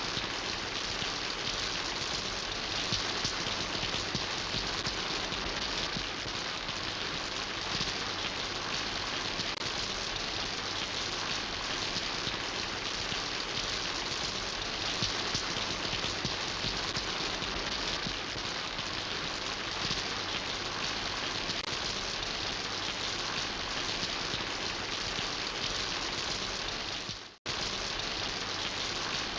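Steady rain falling, an even hiss of many drops. It cuts out for a split second near the end, then carries on as before.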